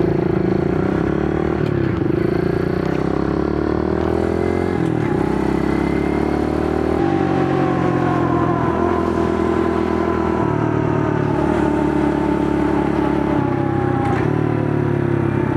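Kawasaki KLX110 pit bike's small four-stroke single-cylinder engine pulling away and accelerating, its pitch climbing and then dropping at each of several upshifts.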